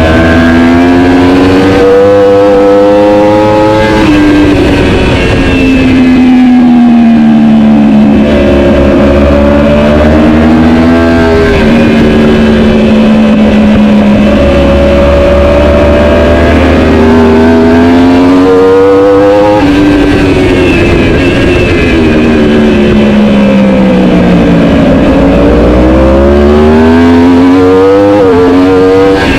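Superbike engine at race pace, revving hard and climbing in pitch, then dropping sharply at each upshift, with longer falling stretches as it slows and comes back down the gears.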